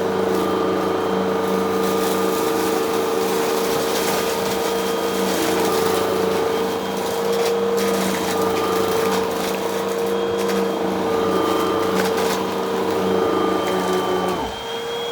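Vacuum cleaner running steadily, crackling as it sucks up crunchy debris. Near the end its lower hum drops away.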